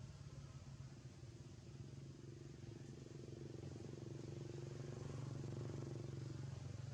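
A faint motor vehicle engine hum that grows a little louder past the middle and then eases off, like a vehicle passing.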